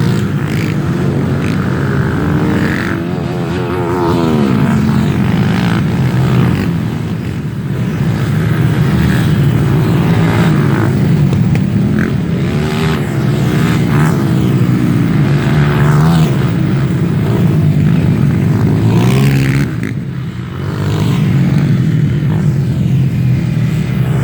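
Off-road trail motorcycle engines running and revving, the pitch rising and falling again and again as the bikes are worked through mud, with a brief let-off near the end.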